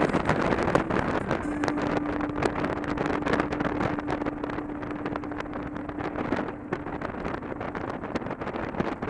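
Motorcycle riding at speed, heard through an action camera, with wind buffeting and crackling on the microphone over the running engine. A steady hum-like tone is held for about five seconds, starting a second and a half in.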